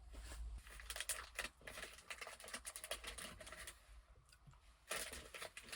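Faint run of quick clicks and rattles from small hard objects being handled, dense at first, thinning out, then a short burst near the end. The sound carries the closeness of a small enclosed room.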